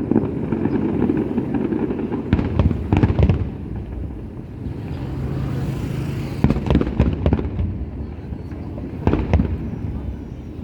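Aerial fireworks bursting in clusters of sharp bangs and crackles, about three volleys, over a steady low rumble, with a brief hiss midway.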